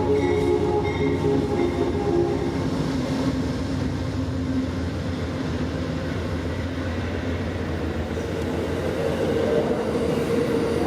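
A train's steady rumble with a low droning hum, growing a little louder near the end.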